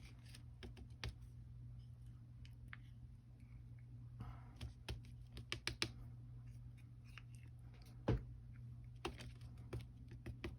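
Faint, scattered light clicks and taps of a paintbrush handle working texture paste in a small jar, with one duller knock about eight seconds in, over a low steady hum.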